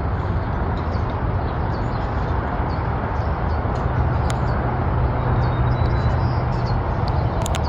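Steady low rumble of background noise, with a few faint short chirps and clicks from the parrot mumbling in its cage.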